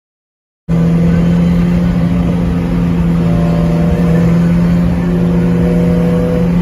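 Car engine running hard at a steady pitch, a loud continuous drone that begins abruptly less than a second in. The car is one of the two Honda B-series four-cylinders being raced.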